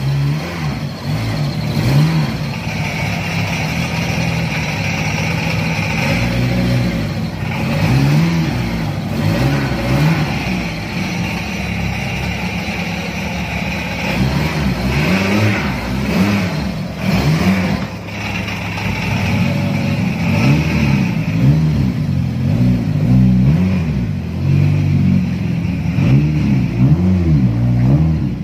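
Mitsubishi Lancer Evo III's engine being revved again and again in quick blips with the car standing still, its pitch rising and falling with each blip. The blips come closer together toward the end.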